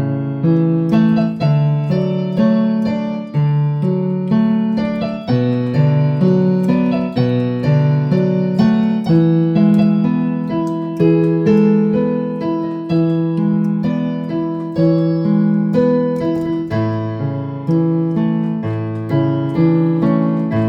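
Electronic keyboard on a piano sound playing a slow hymn accompaniment in chords, with a steady beat and no singing.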